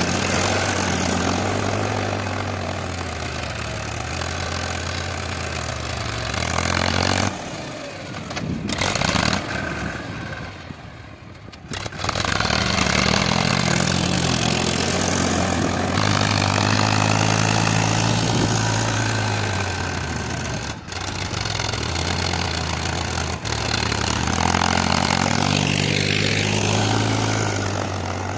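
Tractor engine running, its speed rising and falling. About a quarter of the way in the sound drops away for a few seconds, then comes back suddenly.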